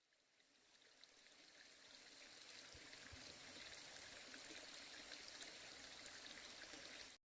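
Faint steady rush of running water, fading in from silence over the first couple of seconds and cutting off suddenly near the end.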